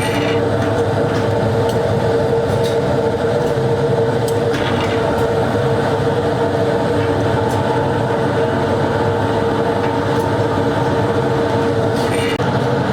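Workshop machinery running with a steady hum, with a few light clicks and a short metallic rattle near the end.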